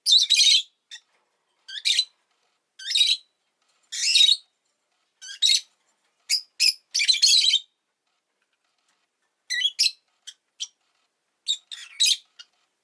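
Rosy-faced lovebird giving harsh, shrill chirps about once a second. After a short pause it gives a quicker run of short chirps near the end.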